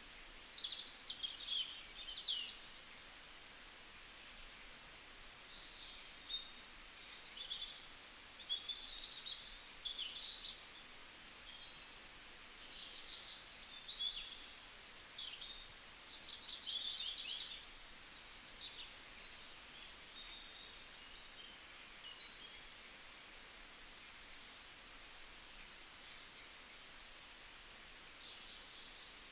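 Songbirds chirping and singing: many short high chirps, quick sweeps and trills overlapping one another, over a faint steady hiss.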